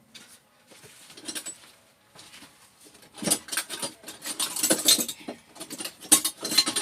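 Irregular clicking, scraping and rattling of a tool and metal and plastic parts as the plastic clips holding a microwave's cooling fan are worked loose, in bursts from about three seconds in and again near the end.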